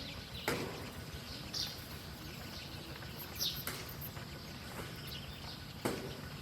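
A few short, high bird chirps over a steady background hiss, with a few sharp clicks scattered through.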